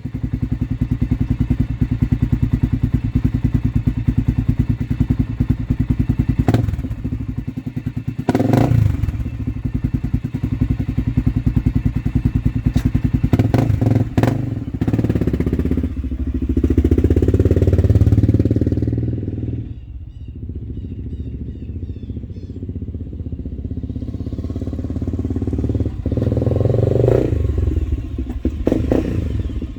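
Honda TRX400EX ATV's single-cylinder four-stroke engine running through a Motoworks aftermarket exhaust. It sits at idle, with a few short throttle blips, a longer, louder rev about halfway through that drops back to idle, and another rise near the end.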